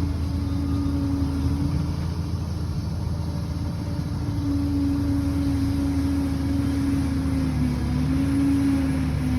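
Liebherr PR 746 crawler dozer's diesel engine running steadily under work, its pitch dipping briefly twice near the end.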